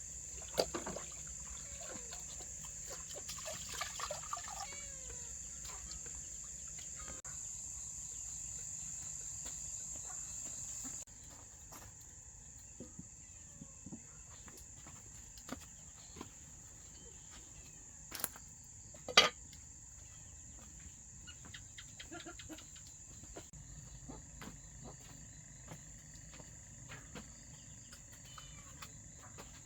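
Rural outdoor ambience with a steady high-pitched insect drone, which drops in level about a third of the way through. A few short bird calls come a few seconds in, and two sharp knocks come a little past the middle.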